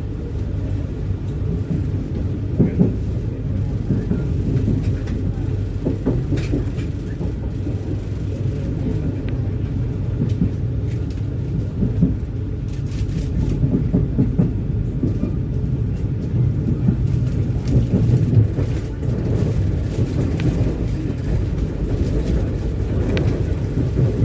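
Passenger train running along the track: a steady low rumble of the carriage, with scattered brief knocks.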